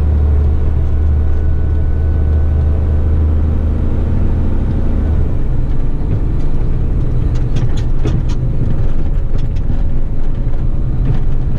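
Heavy truck's diesel engine running under way, heard from inside the cab. A steady low drone gives way to a rougher rumble about five seconds in, with scattered knocks and rattles from the truck on the dirt road.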